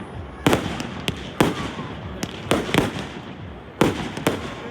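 Fireworks going off: about seven sharp bangs at uneven intervals, some in quick pairs, over a steady background rush of noise.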